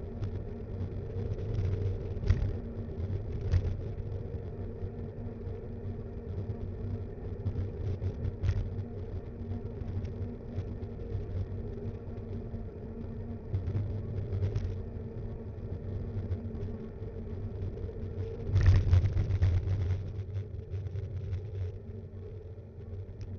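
Steady rumble and vibration of a mountain bike riding along a road, picked up by the action camera mounted on it, with sharp jolts from bumps now and then and a heavier rattle about 19 seconds in.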